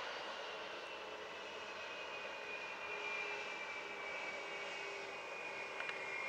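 Jet airliner engines: a steady rushing noise with a high whine that slowly falls in pitch.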